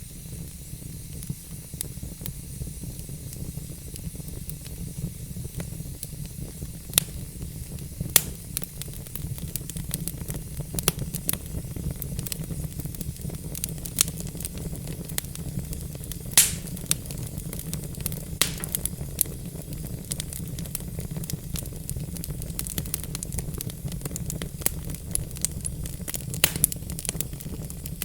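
Log fire in a fireplace crackling, with frequent sharp pops over a steady low rumble and hiss; the loudest pops come about 8 and 16 seconds in.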